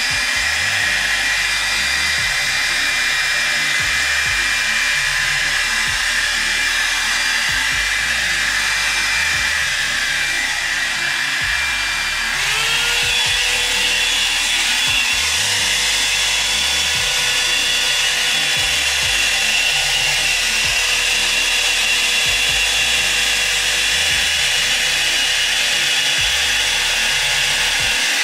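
Revlon Hot Air Kit blow dryer brush running steadily, a rush of air with a motor whine. About twelve seconds in the motor speeds up, its whine rising and settling at a higher pitch, and the airflow gets a little louder.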